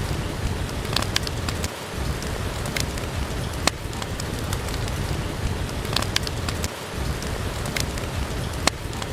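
Steady, heavy rain, with sharp crackles and pops of a wood fire burning in a fireplace scattered through it every second or two.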